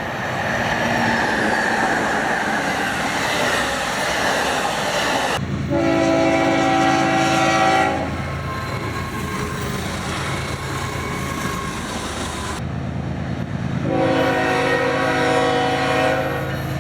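Train rumbling past, then a diesel locomotive's multi-chime horn sounding twice, each blast a steady chord lasting two to three seconds, over the rail noise. The sound changes abruptly between blasts, as at edits between takes.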